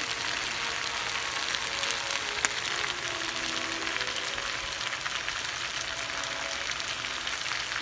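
Diced potatoes and onions sizzling as they fry in oil and margarine in a pan, a steady crackling hiss with one sharper pop about two and a half seconds in.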